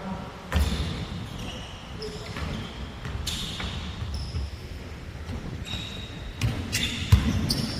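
Basketball game play on an indoor court: the ball bouncing in repeated thumps, with short high squeaks of sneakers on the hardwood floor and a few sharp knocks near the end, in a reverberant gym.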